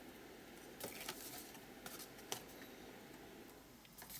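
Faint rustling and light taps of paper and card being handled, with a few short crisp sounds scattered through.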